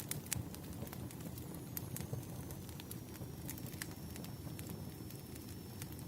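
Campfire crackling: irregular sharp snaps and pops over a low, steady rumble of burning.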